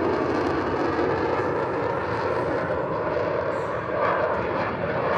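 Aircraft engine noise: a steady, even rumble with no clear pitch.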